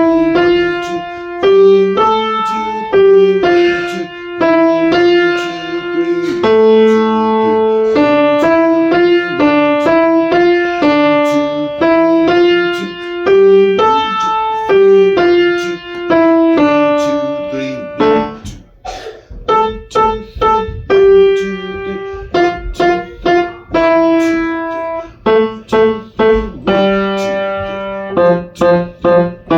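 Piano playing a lively melody over bass notes, with a brief break about two-thirds of the way through; near the end the notes turn short and detached.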